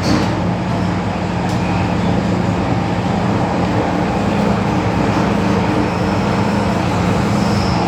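MTR M-Train metro car heard from inside while running, a steady rumble with a low hum, with a sharp click about a second and a half in.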